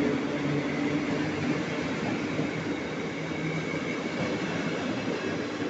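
Passenger coaches of a departing train rolling past at low speed: a steady rumble of wheels on rail that slowly fades.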